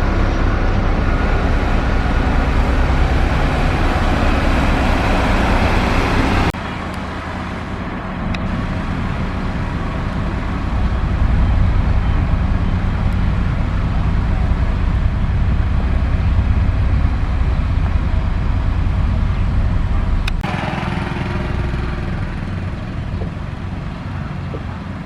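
Diesel engines of heavy road-construction machinery running steadily. The sound changes abruptly about six seconds in and again near the end.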